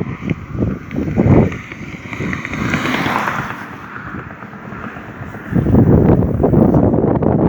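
Wind buffeting the microphone in uneven gusts, with a softer hiss in the middle and a strong gust from about two thirds of the way in.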